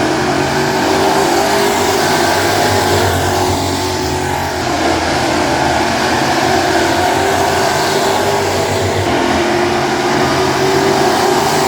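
Several classic-class dirt-track race car engines running together as the field races around the oval, their pitch rising and falling as the cars go past.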